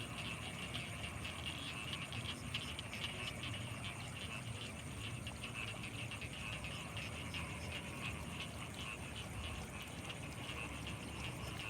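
Night chorus of frogs, many rapid calls overlapping into a steady pulsing din, with a thin, steady high insect trill above it and a low hum underneath.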